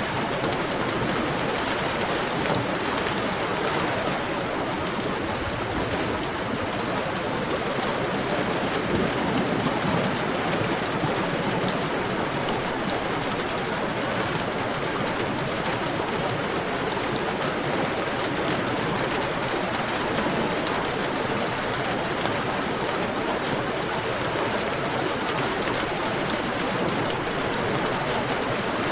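Heavy rain falling steadily, a dense even hiss with scattered drop patter.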